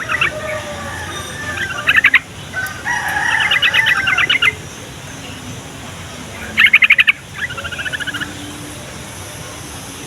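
Yellow-vented bulbul (trucukan) singing: loud bursts of fast repeated chirping notes, with a longer run in the middle and a softer trill near the end.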